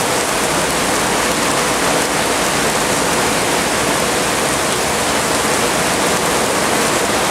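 Heavy rain falling steadily during a downpour, an even, loud hiss of water over a flooded yard.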